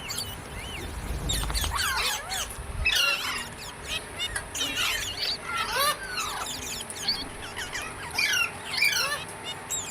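Several rose-ringed parakeets (Indian ringneck parrots) calling with quick, rising and falling chirps, many calls overlapping, with a low rumble about one to three seconds in.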